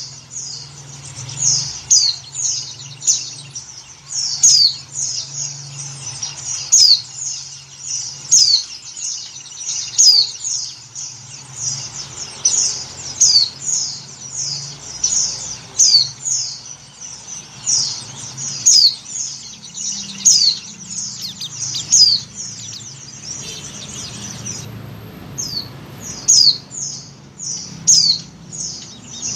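White-eye (pleci) calling: a fast, continuous run of short, high, downward-sliding chirps, with a brief break about four-fifths of the way through. The calls are offered as a female in breeding condition calling for a male, the kind of call used to lure white-eyes. A faint steady low hum runs underneath.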